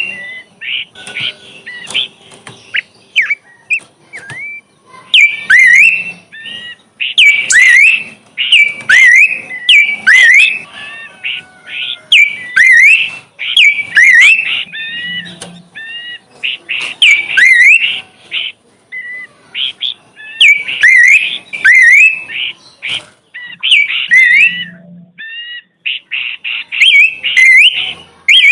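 A songbird singing loud bursts of fast whistled and chirping notes that sweep up and down, phrase after phrase with short pauses between.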